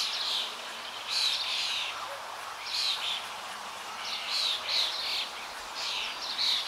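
Birds chirping: short high calls repeating every second or so over a steady hiss.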